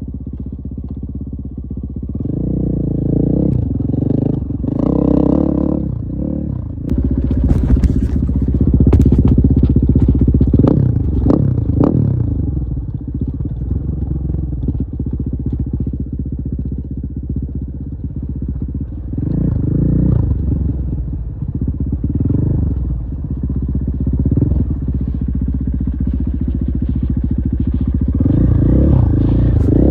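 KTM 450 EXC-F's single-cylinder four-stroke engine running, its pitch rising and falling repeatedly with the throttle. Sharp clattering strikes come between about 7 and 12 seconds in.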